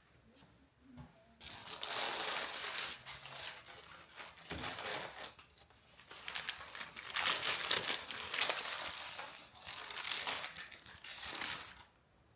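Crinkly wrapping being handled and crumpled in several bouts of rustling, with short pauses between them.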